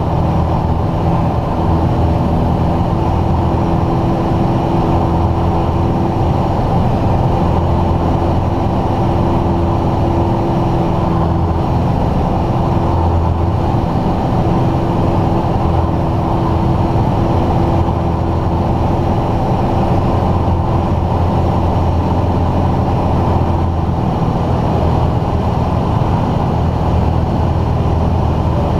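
Steady drone of a light aircraft's piston engine and propeller, heard from inside the cockpit and holding an even pitch.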